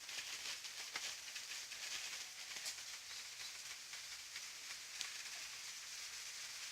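Newly lit campfire of straw, dry twigs and sawdust burning, with a steady hiss and many small crackles as it catches.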